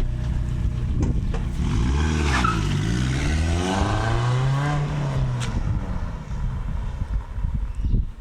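2013 Toyota Auris exhaust at idle, then the car pulls away: the engine note dips and climbs as it accelerates. After about six seconds it fades into rough road and wind noise.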